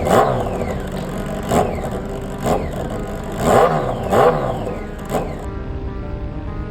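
An engine revved in about six sharp blips, each winding back down quickly; the revving stops about five and a half seconds in.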